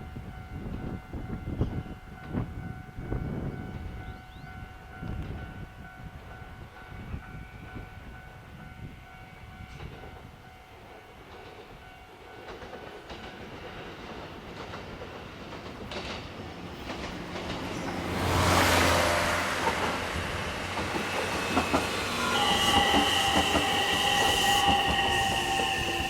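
A train passing over a level crossing: its running and wheel noise builds and grows loud about 18 seconds in. From about 22 seconds in the train's horn sounds one long tone that falls slightly in pitch.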